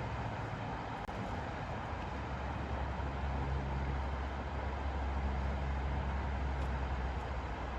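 Steady, even hiss over a constant low rumble, with a faint engine-like hum drifting in and out.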